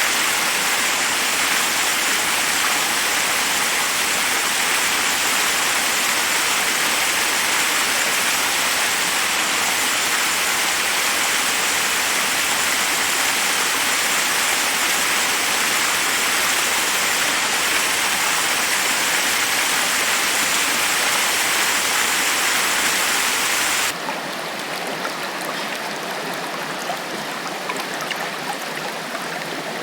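Forest waterfall rushing steadily over rocks. Near the end it switches abruptly to a quieter, thinner flow of running water with small splashes.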